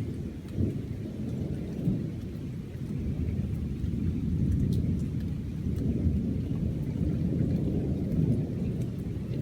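Thunder rumbling low and continuous, swelling about three seconds in and staying up, with faint rain ticks over it.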